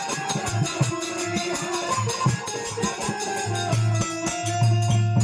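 Instrumental interlude of Indian folk stage music: a held melody line over a beat of low drum strokes and jingling percussion.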